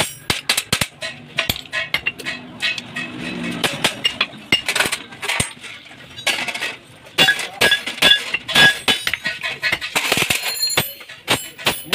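Metal clinking and knocking, many light irregular strikes, with a few brief ringing tones from metal parts about two-thirds of the way through.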